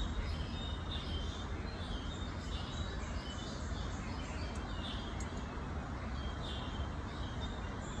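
Background birds chirping with short, repeated calls over a steady low rumble.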